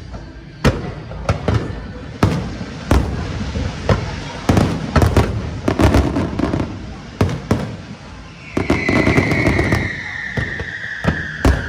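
Fireworks bursting in a rapid, irregular string of sharp bangs. From about eight and a half seconds in, a long whistle joins them, slowly falling in pitch.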